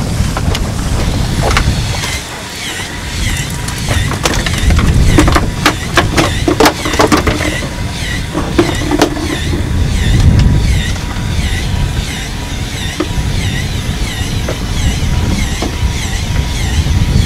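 Wind buffeting the microphone over the rumble of a boat under way, with a cluster of sharp clicks about four to nine seconds in and a faint high squeak repeating about twice a second.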